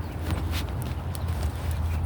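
Footsteps on a walk: irregular sharp clicks over a steady low rumble.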